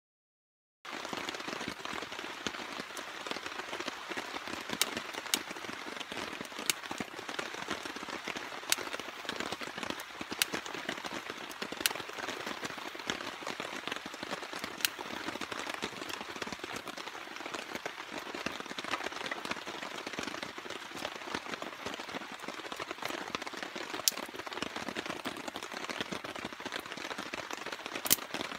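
Steady rain falling, with scattered sharper drops pattering nearby; it starts abruptly about a second in.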